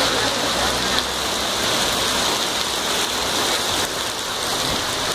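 Heavy rain with small hail pouring down onto pavement: a steady, dense hiss.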